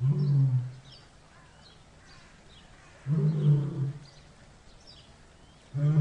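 Lion calling: deep moaning grunts about a second long, one at the start and another about three seconds in, with a third beginning near the end. Faint bird chirps run underneath.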